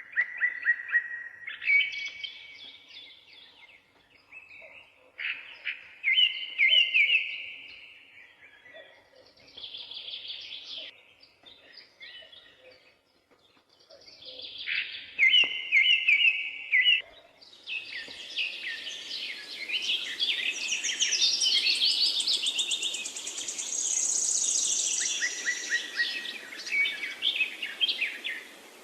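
Songbirds singing in short, repeated phrases, several birds overlapping. About two-thirds of the way in, a steady hiss comes in under them and the song becomes denser and higher.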